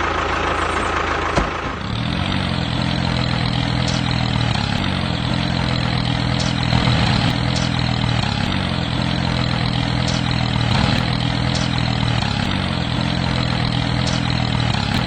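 Engine idling steadily, with a slight wavering that repeats every two seconds or so.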